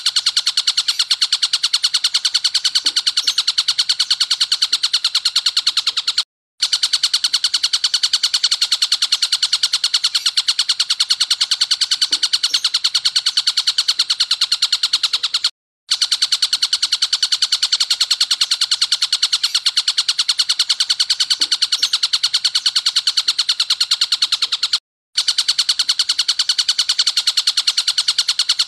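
Looped birdsong training recording of a kapas tembak combined with small birds: a long, harsh run of rapid rattling 'shot' notes. It breaks off for a moment three times as the loop restarts.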